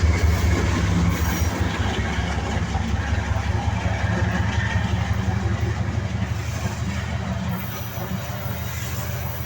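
Loaded freight train passing, a steady low diesel-locomotive engine drone over the rumble of the train, slowly fading.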